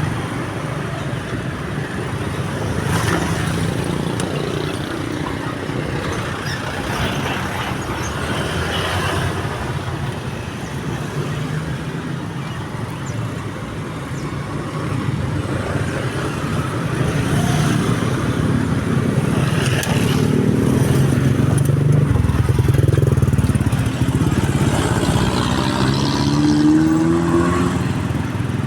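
Road traffic of motorbikes and cars idling and passing, with a steady engine hum; in the last few seconds it grows louder and one engine revs up with a rising pitch.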